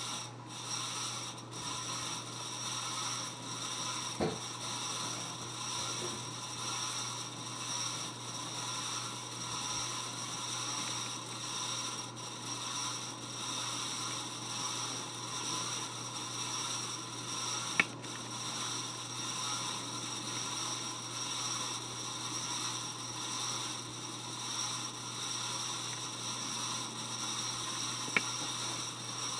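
Casablanca Delta II ceiling fan running on high with very loud bearing noise over a low motor hum. The noise comes from worn bearings. Its speed is no higher than on medium, which the owner takes for a bad capacitor. A few brief clicks stand out, about four seconds in, past halfway and near the end.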